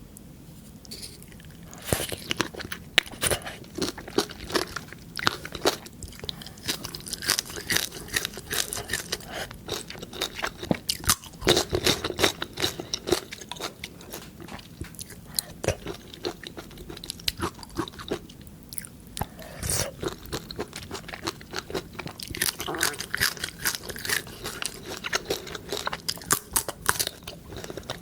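Close-miked eating: crunchy bites and chewing, a dense run of crisp crunches starting about two seconds in.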